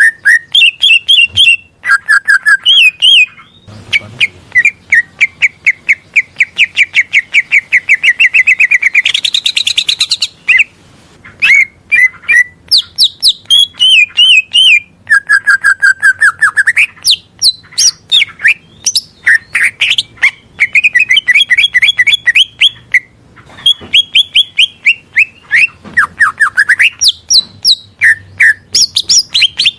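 Green leafbird (cucak ijo) singing a loud, varied song of fast repeated chirps and rapid trills, broken by a few brief pauses.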